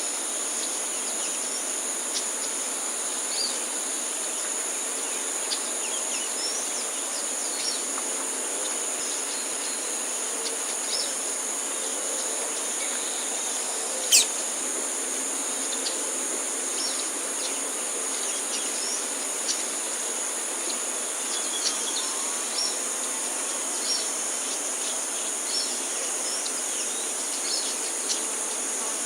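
Steady high-pitched insect chorus, with short high call notes from a double-collared seedeater (coleiro) every second or two. One sharper, louder note comes about fourteen seconds in.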